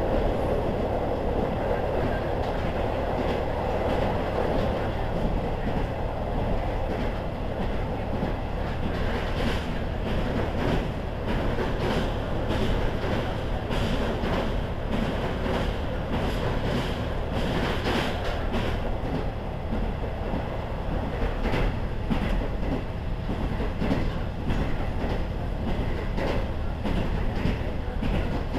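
KiHa 40-series diesel railcar running along the line: steady running noise with the wheels clicking over rail joints again and again.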